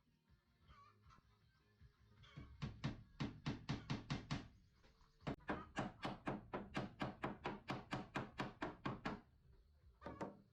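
Rapid hammering on wood, about four to five blows a second, in two runs with a short pause between them, then one last blow.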